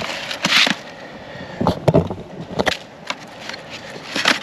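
Takeaway food packaging being handled and opened: irregular rustles, clicks and knocks, with a louder rustle about half a second in.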